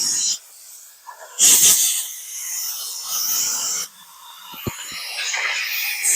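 Electric arc welding on steel plate, crackling and hissing in short stop-start bursts as the arc is struck and broken, the loudest burst about a second and a half in. A single low knock partway through.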